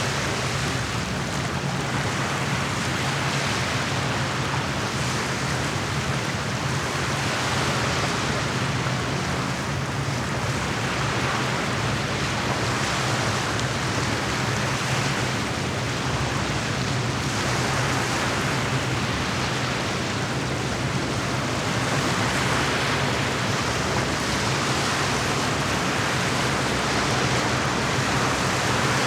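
Small lake waves washing against the shore: a steady rushing wash that swells gently every few seconds, over a low steady hum.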